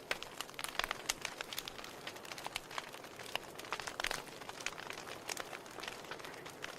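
Wood fire in a fireplace crackling, with a steady soft hiss under frequent irregular pops and snaps and one sharper pop about four seconds in.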